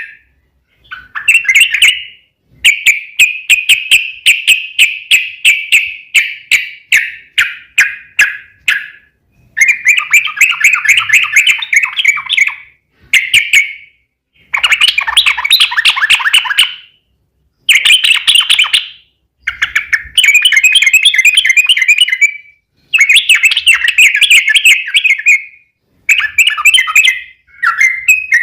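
Yellow-vented bulbul (trucukan) song in loud phrases of rapid, chattering repeated notes, each phrase lasting about one to six seconds. The phrases are split by short gaps of silence that start and stop abruptly.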